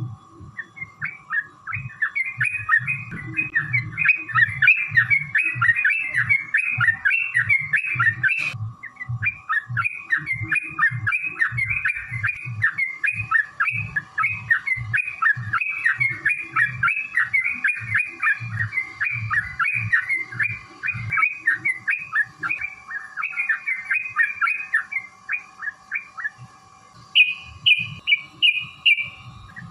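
Yellow-vented bulbul (trucukan) singing a long, continuous run of rapid bubbly chattering notes, with a sharp click about 8.5 seconds in. Near the end the song switches to a short series of four or five higher, evenly spaced notes.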